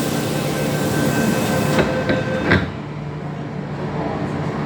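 MTR M-Train electric multiple unit running on the line: steady motor hum under wheel-and-rail hiss, with a few sharp clunks about two seconds in, after which the hiss dies down.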